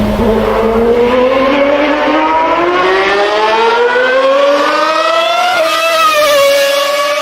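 V12 supercar engine accelerating hard, its pitch climbing steadily for about five seconds, then dipping slightly about five and a half seconds in and holding a steady note.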